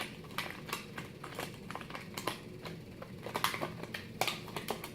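A small mirror and its packaging being handled by hand: light, irregular clicks and taps, coming faster in the second half.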